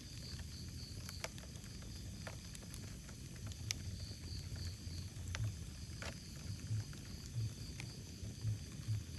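Wood fire burning in a fireplace: a low, uneven rumble of the flames with a few sharp crackles and pops scattered through it.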